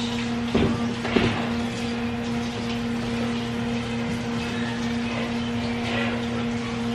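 Steady electric hum with a couple of light knocks about half a second and a second in.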